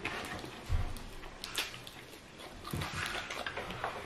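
Eating sounds: a diner chewing crispy pata (deep-fried pork knuckle), with scattered crunchy clicks and a soft thump about three-quarters of a second in.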